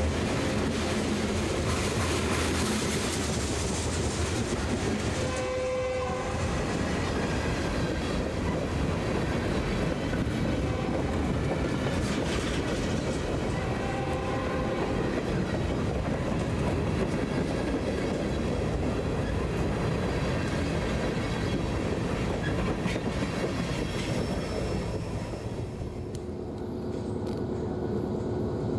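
BNSF freight train passing close by: a steady rumble and rattle of wheels over the rails, with a short horn blast about six seconds in. Near the end the rumble drops off.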